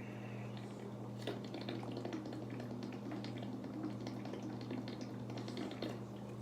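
A person drinking from a big jug of water: water sloshing, with small clicks and gulps starting about a second in, over a steady low hum.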